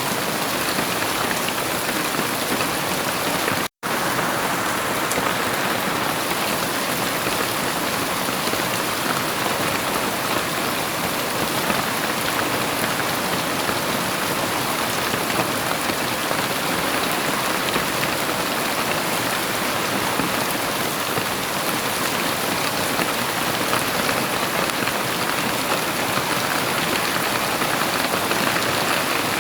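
Heavy rain falling steadily, an even dense hiss with no thunder, broken once by a split-second dropout to silence about four seconds in.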